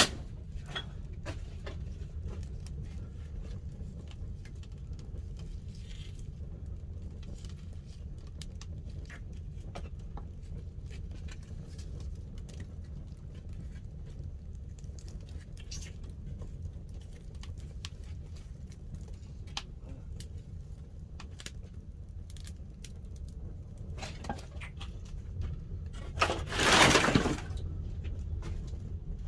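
Pine firewood burning in a traditional wood-fired kiln: a steady low rumble with scattered crackles and pops. A louder burst of noise lasting about a second comes near the end.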